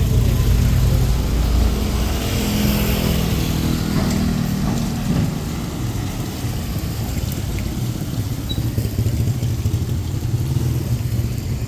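A vehicle engine running close by, loud for the first few seconds and fading about five seconds in as it passes; another engine comes up near the end, over a steady hiss of street noise.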